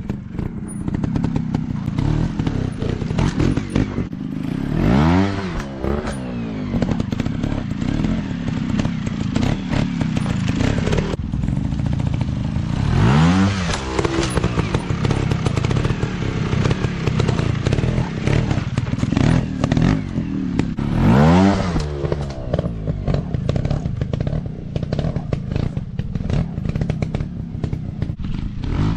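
Dirt bike engine running throughout, revved up and back down three times about eight seconds apart, with clattering knocks over it.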